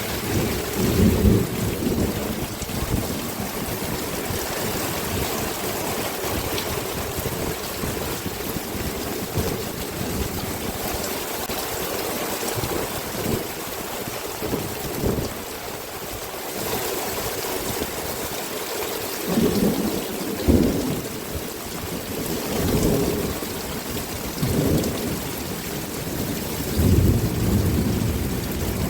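Heavy rain pouring steadily, with low rumbling surges several times, the strongest about a second in and about twenty seconds in.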